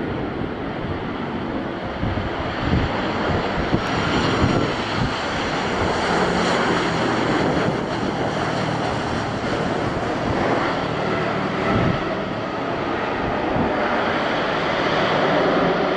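Boeing 737-800's CFM56 jet engines during landing, a steady engine whine coming in about four seconds in, under heavy wind noise on the microphone.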